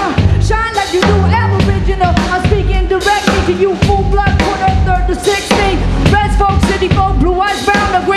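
A live band playing a song with a steady drum-kit beat and melodic lines over it.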